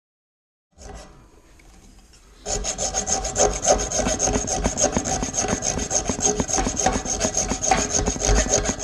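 Hacksaw cutting through a thick radiator pipe. Quiet at first, then steady fast back-and-forth strokes begin about two and a half seconds in and run on.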